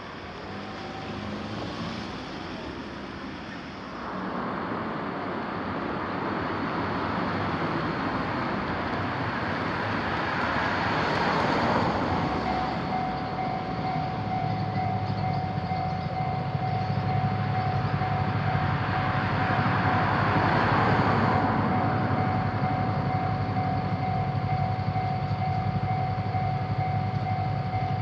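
Train passing over a railroad crossing: a rumble builds from about four seconds in and swells twice. About halfway through, a steady high tone starts and holds to the end.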